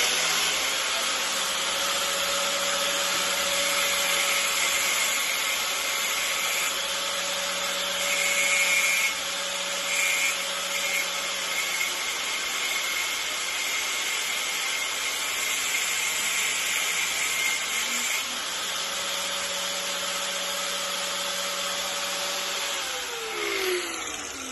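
Electric grinder running: it spins up at the start, grinds steadily with some louder stretches under load, then winds down with a falling whine near the end.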